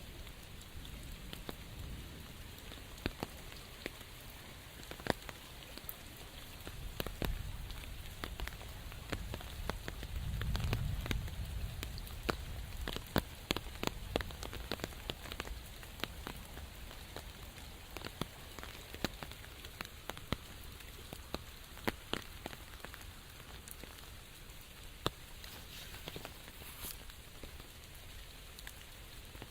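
Steady rain falling, with many large single drops striking sharply close by. A low rumble swells briefly about ten seconds in.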